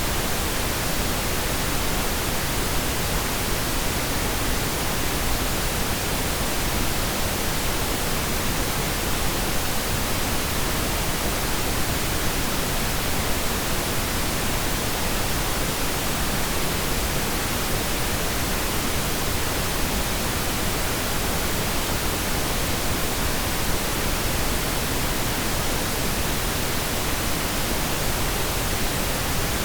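Steady pink noise: an even, unchanging hiss with no separate drops, tones or knocks.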